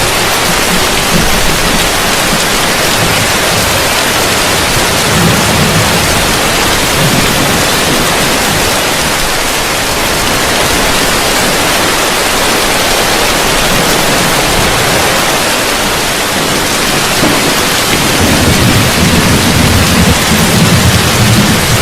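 Heavy rain falling on a roof, a steady dense hiss, with a low rumble of thunder about five seconds in and swelling again over the last few seconds.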